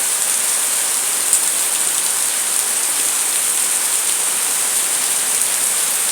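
Steady rainfall, an even hiss of drops, with one sharper tap about a second in.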